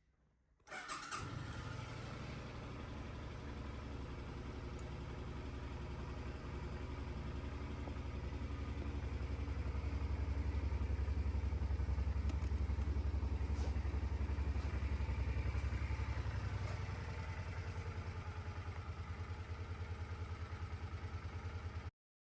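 Suzuki VZ800 Intruder's 805cc V-twin engine starting up about a second in and then idling with a steady pulsing beat. It runs louder for several seconds in the middle, settles back, and cuts off suddenly near the end.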